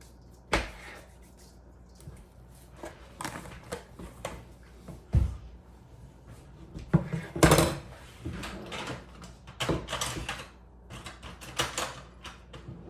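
Scattered kitchen clatter: containers, lids and utensils knocked and set down on a counter, with a few louder knocks.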